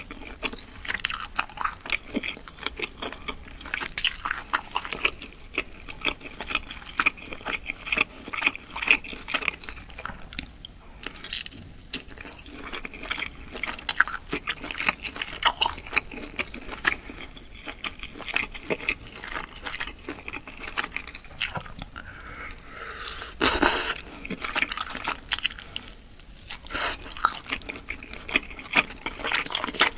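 Close-miked chewing of grilled skewer meat, a steady run of wet smacks and small clicks, with one louder noisy burst lasting about a second roughly three quarters of the way through.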